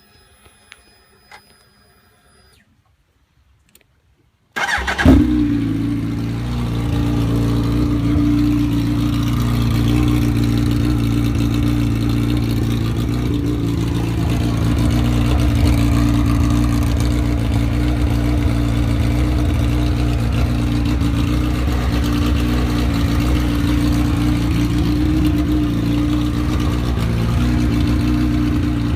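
2005 Suzuki Hayabusa's inline-four engine on new shorty exhausts: after a few seconds of faint clicks and a thin whine, it is cranked and fires about four and a half seconds in with a sharp bark, then settles into a steady, loud idle.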